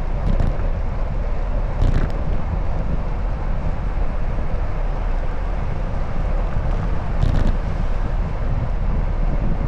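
Wind rushing over the microphone of a camera on a moving bicycle, mixed with road and traffic noise, with brief louder swells about two seconds in and again near the end.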